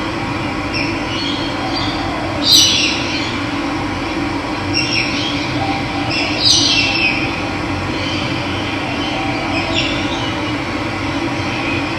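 Running water with a steady rushing sound, and birds calling over it in short falling calls, the loudest about two and a half and six and a half seconds in.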